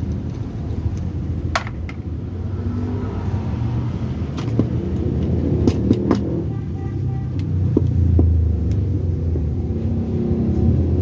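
A steady low engine rumble, with a few sharp clicks and taps scattered through it.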